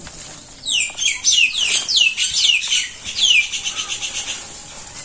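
A bird calling loudly: a quick series of sharp notes, each falling steeply in pitch, starts just under a second in. Near the end it gives way to a fast run of short, rapid repeated notes.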